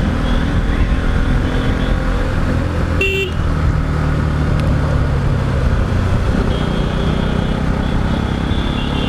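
Motorcycle engine running steadily while riding, with a short horn toot about three seconds in and higher horn tones later.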